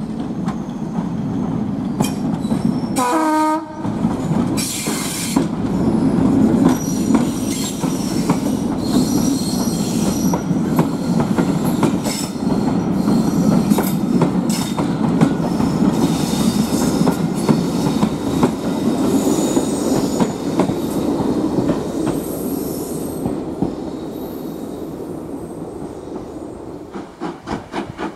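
Class 73 electro-diesel locomotive passing under power on its English Electric diesel engine. Its coaches follow, wheels clattering over the rail joints with some high wheel squeal. The sound fades near the end as the train draws away.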